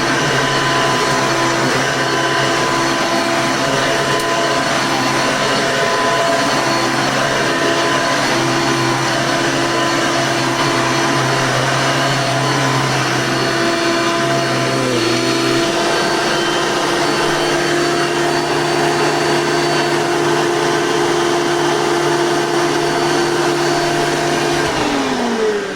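Hoover Elite 2 upright vacuum cleaner running steadily, its motor still sounding brand new. Its tone shifts briefly about fifteen seconds in, and near the end it is switched off and the motor winds down in falling pitch.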